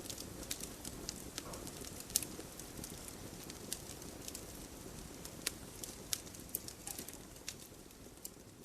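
Campfire burning: a steady low rush of flames with sharp, irregular crackles and pops from the burning wood, growing a little quieter near the end.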